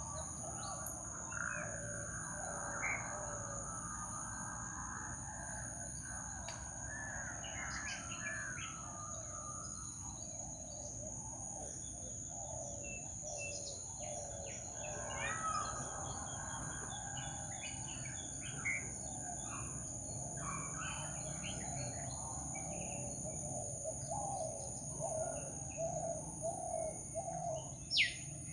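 Tropical forest birds, many calling and chirping at once, over a steady high-pitched drone. A single sharp click sounds near the end.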